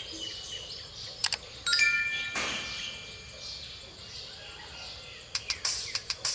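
Phin, the Isan plucked lute, played sparsely between phrases: a few ringing high notes with sharp string clicks. There is a brief rushing noise about two and a half seconds in.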